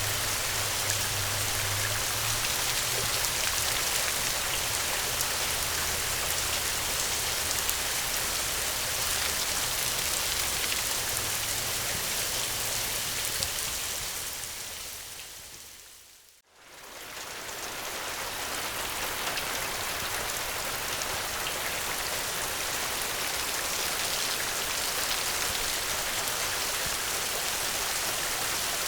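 Steady heavy rain with a low rumble underneath for the first dozen seconds. About sixteen seconds in the rain fades almost to nothing and swells straight back, the join of a looped rain recording.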